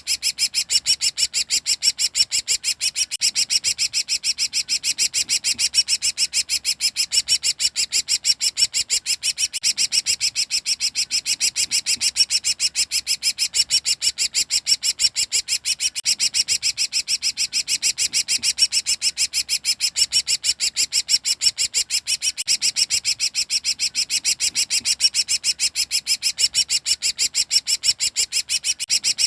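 Cucak ranting, a leafbird, 'ngekek': an unbroken rapid chatter of short high notes repeated several times a second.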